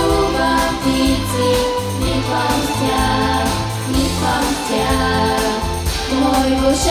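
A vocal ensemble singing in unison over a recorded backing track with a bass line.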